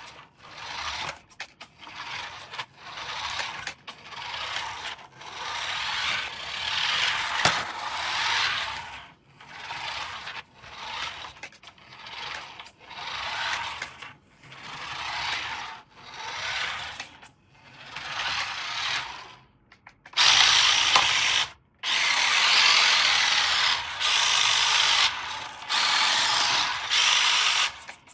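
A toy RC vehicle's small electric motor and plastic gearbox whirring in short repeated runs of about a second each, then running almost continuously and louder from about 20 seconds in.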